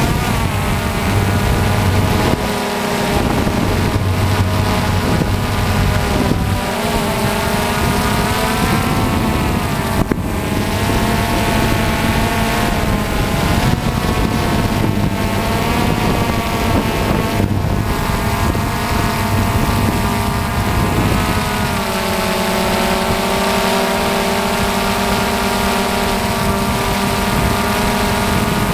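DJI Phantom FC40 quadcopter's motors and propellers whining in flight: a stack of tones that drifts up and down in pitch as the throttle changes.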